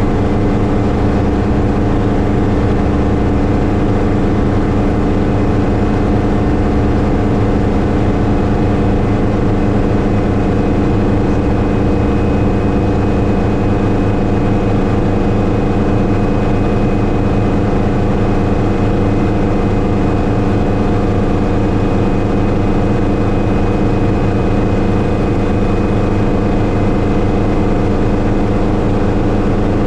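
Schweizer 300C (Hughes 269C) helicopter's piston engine and rotor running steadily, a dense stack of steady tones. The deepest rumble eases slightly about 13 seconds in.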